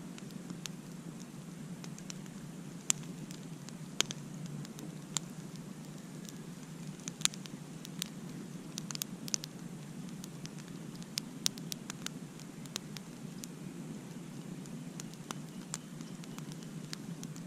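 Wood campfire crackling: irregular sharp pops and snaps, a few a second, over a steady low rush of the burning fire.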